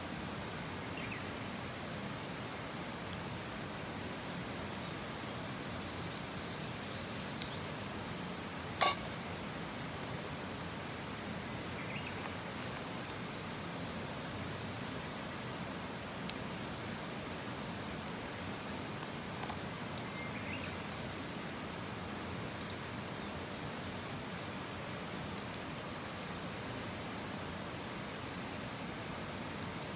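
Campfire burning with a steady hiss and scattered crackles, one sharp pop about nine seconds in. Faint short bird chirps now and then.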